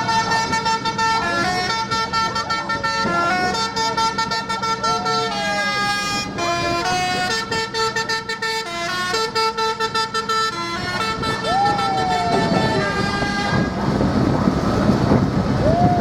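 A tune of held notes stepping up and down, played from a vehicle in the tractor parade over a low engine rumble. It ends about three-quarters of the way through, and a few falling whoops or whistles sound around it.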